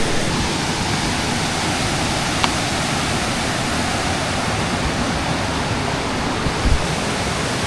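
Steady rushing of a waterfall, with a small click about two and a half seconds in and a low thump near the end.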